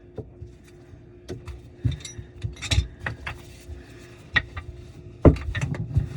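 Scattered clinks and knocks of tools and parts being handled during garbage disposal and sink drain work, with the loudest knock about five seconds in. A faint steady hum runs underneath.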